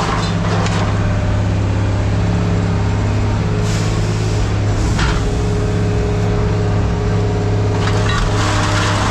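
Heavy machine's engine running steadily, with a few short bursts of noise over it.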